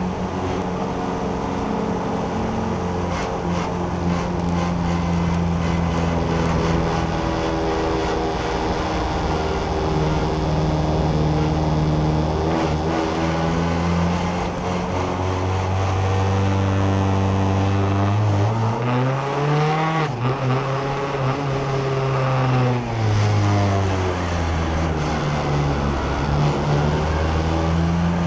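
BAC Mono's four-cylinder engine running on track, heard onboard from the open single-seat cockpit. The note holds steady for most of the time, then climbs and falls back again about two-thirds of the way through.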